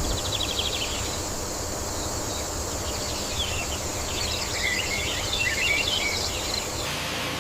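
Outdoor ambience: birds chirping in scattered bursts over a steady high insect-like drone and a low rumble, cutting off abruptly just before the end.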